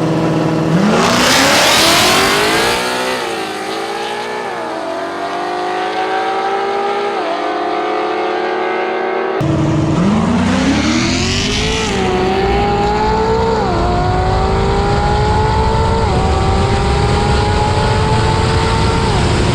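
Race car engine accelerating hard from a launch, revving up through the gears with a brief dip at each shift. It starts with a burst of noise at the launch. About nine seconds in there is a sudden cut to a second full-throttle pull with several more shifts.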